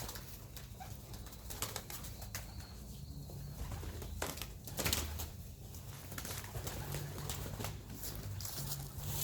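Domestic pigeons cooing, with a few sharp flaps of wings, the loudest about five seconds in.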